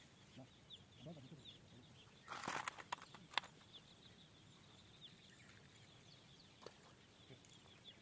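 Faint rural ambience with birds chirping in short repeated notes. A brief rustle and a few sharp clicks come between about two and a half and three and a half seconds in.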